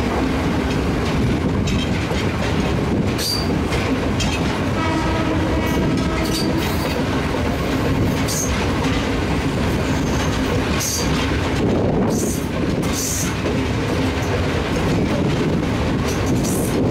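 A diesel-hauled passenger train running along the line, its wheels clattering steadily over the rails with scattered sharp clicks. A short pitched tone sounds about five seconds in.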